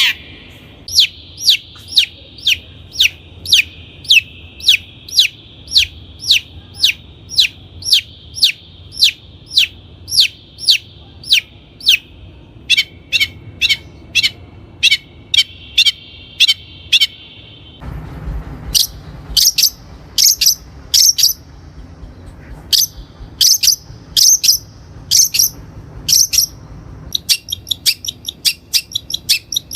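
Long-tailed shrike singing: a long, even series of sharp, downward-sweeping high notes, about one and a half a second, over a steady high background tone. About two-thirds in, the recording changes and the notes come in clusters, quickening into a rapid run of short notes near the end.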